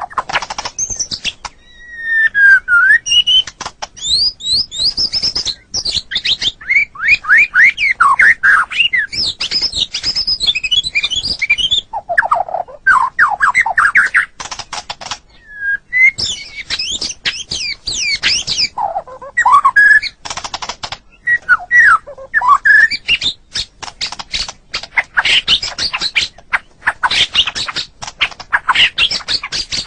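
White-rumped shama singing: a fast, varied stream of whistles, quick rising and falling sweeps and clicking notes, with a few short breaks.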